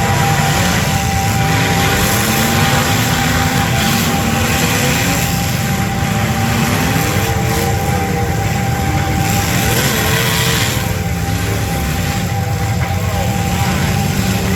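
Demolition derby cars' engines running loudly together, revving up and down.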